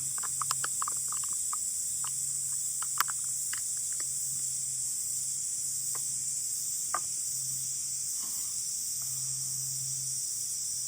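A steady, high-pitched chorus of insects, with irregular sharp crackles and pops from a wood campfire, most frequent in the first few seconds. A faint low hum comes and goes underneath.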